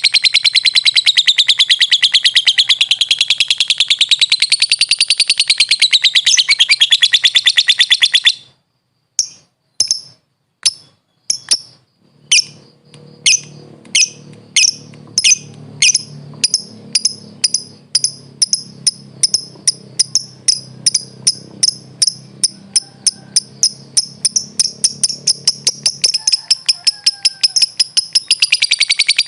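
Lovebird in a long rapid chattering trill (ngekek) that stops about eight seconds in. Single sharp chirps then start up and steadily quicken until they run together into continuous chatter again near the end.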